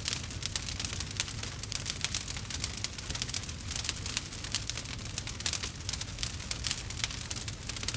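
Campfire crackling: many quick, irregular crackles over a low steady rumble.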